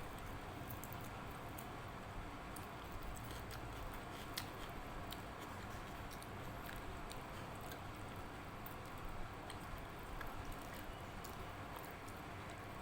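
Close-up eating sounds: chewing and wet squishing of dal and rice eaten by hand, with many small scattered clicks over a steady background hiss.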